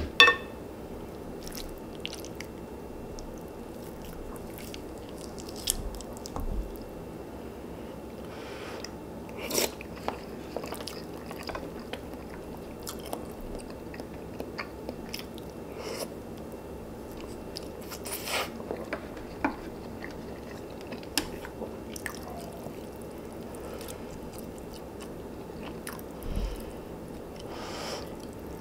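A person eating close to the microphone: steady chewing with occasional crunches and a few sharp clicks.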